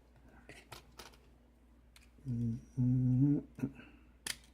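A man hums two short low notes, wordless, about two seconds in, amid faint clicks and taps of a pick and tension tool working a lock, with one sharp click near the end.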